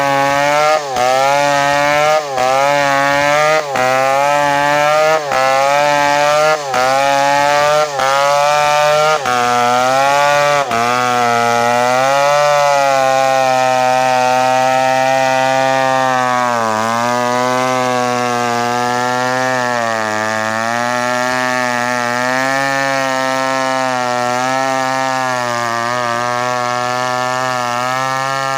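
Two-stroke Stihl chainsaw running at high revs while cutting through a coconut palm trunk. For the first ten seconds or so the sound drops out briefly about every second and a half, its pitch climbing again after each drop. After that it runs on unbroken, the pitch sagging and recovering with the load.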